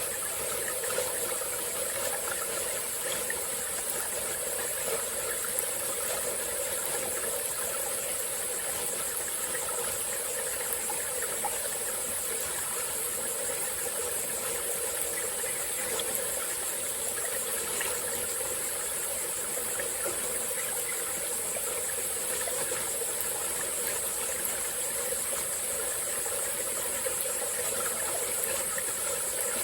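Small forest stream flowing steadily, with a constant high-pitched chorus of insects over it.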